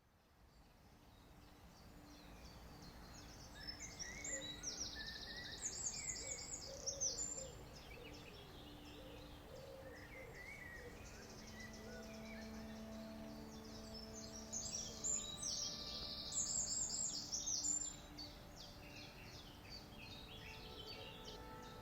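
Forest birds singing, fading in from silence. One bird gives two bursts of rapid high-pitched song, about four and fifteen seconds in, over scattered calls from other birds and a faint steady drone.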